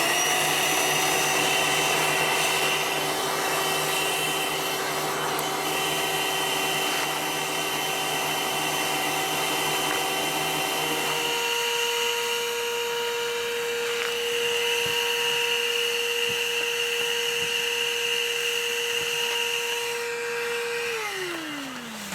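Small electric motor running at a steady hum, stepping up to a higher pitch about halfway through, then switched off and winding down near the end.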